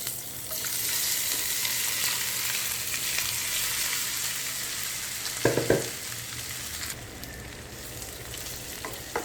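Masala-coated colocasia (taro) slices sizzling as they fry in hot oil, the hiss coming up sharply at the start and then holding steady. A few sharp knocks against the pan, from stirring, come about halfway through and once more near the end.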